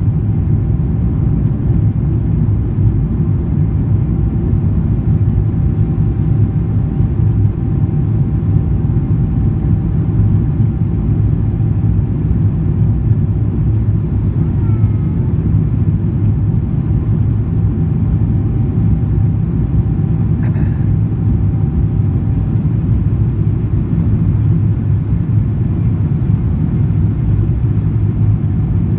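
Steady deep rumble of a Boeing 777-300 airliner under way, heard from inside the cabin, with a faint steady hum over it.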